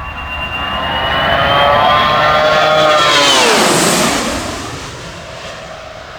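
Boeing 757 jet airliner making a fast low pass, its twin turbofans whining louder as it approaches, then dropping sharply in pitch as it goes by about three and a half seconds in, and fading away.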